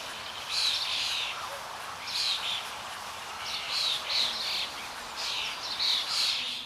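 Songbirds calling: short chirping phrases repeated about once a second over a steady background hiss.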